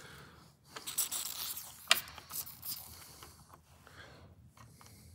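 Plastic engine cover parts being handled and fitted by hand: plastic rubbing and scraping, with one sharp click about two seconds in, then fainter small clicks.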